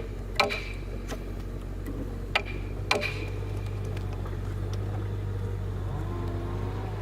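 A few sharp, irregular knocks in the first three seconds over a steady low hum.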